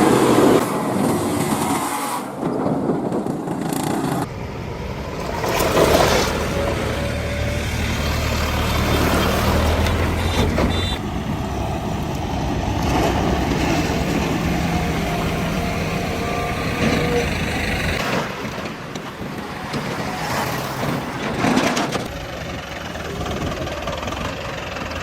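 Diesel engines of heavy machinery running and working under varying load, in a series of short shots that cut abruptly from one to the next.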